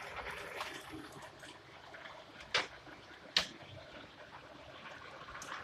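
Heavy rain pouring with a steady rushing hiss, and two sharp knocks a little under a second apart around the middle.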